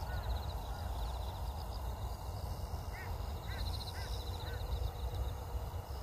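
Birds calling: a series of short chirping calls about twice a second from about halfway in, with a faint high trill. Under them runs a steady low rumble of wind on the microphone.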